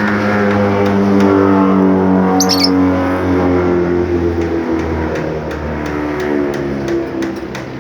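A caged bird gives one short, high chirp about two and a half seconds in, over a louder, steady background of held tones that shift in pitch.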